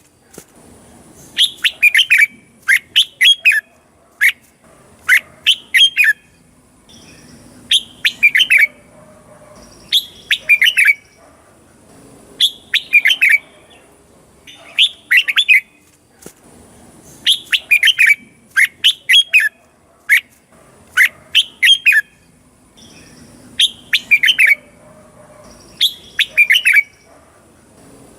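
Red-whiskered bulbul singing short, quick phrases of bright whistled notes. The phrases repeat about every two seconds, about a dozen in all.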